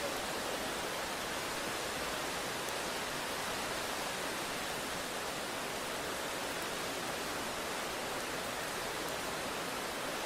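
Rain falling steadily, an even hiss with no breaks or thunder claps.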